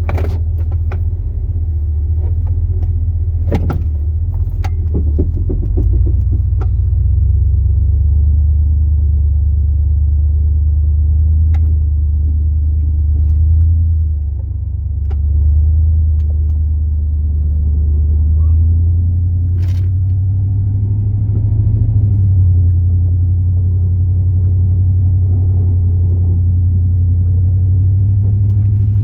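The 2002 Chevrolet Silverado's 8.1-litre big-block V8 runs with a steady low drone, heard from inside the cab as the plow truck drives off. A few knocks and clicks come in the first several seconds and once more near the middle.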